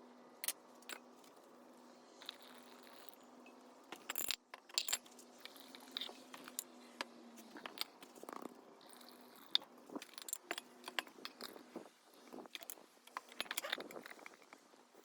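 Scattered light clicks, clinks and taps of small hard objects being handled, irregular and denser in the second half, over a steady low hum.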